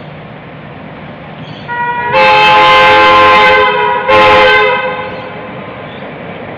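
Diesel-electric locomotive horn sounding two blasts, a long one of about two seconds and then a short one, each a chord of several notes, over the steady running noise of the train.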